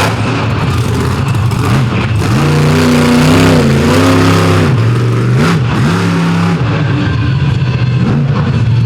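Monster truck engine revving hard, its pitch climbing and falling several times, with a high sustained pull a few seconds in.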